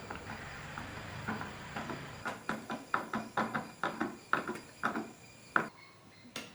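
A quick series of light, sharp knocks, roughly three a second for about three seconds, after a stretch of soft rustling; the last and loudest knock comes about five and a half seconds in.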